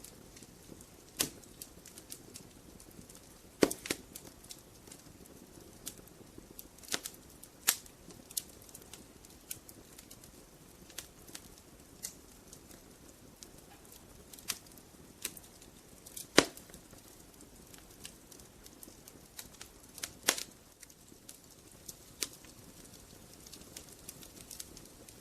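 Wood fire crackling: burning logs popping and snapping at irregular moments over a low hiss, with a few louder pops.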